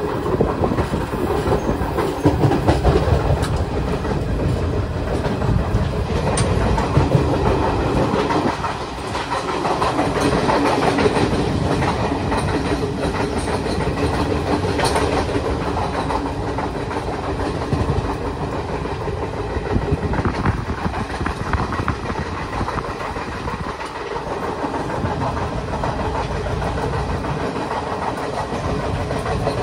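Garib Rath Express passenger train running along the track: steady wheel-on-rail running noise that swells and dips a little.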